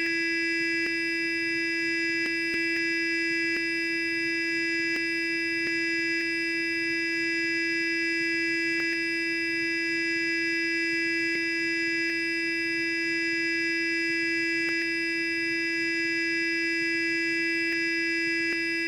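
Sonic electric toothbrush running continuously: a steady, even electric buzz at one pitch, with a few faint ticks now and then.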